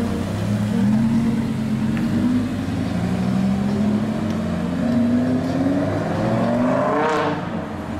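Supercar engine accelerating hard, its pitch climbing in several steps as it runs up through the gears, with a sharper rise near the end.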